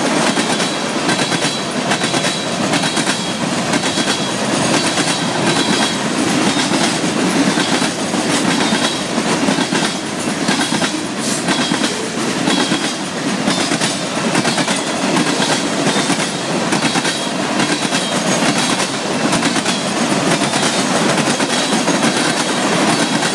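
Freight train cars rolling steadily past at track side, wheels rumbling on the rails with a clickety-clack over the rail joints and a faint high wheel squeal that comes and goes.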